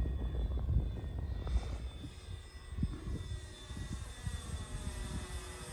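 Electric RC model airplane (Carbon Cub) in flight, its motor and propeller giving a faint steady whine that drifts slowly lower in pitch, over a heavy rumble of wind buffeting the microphone.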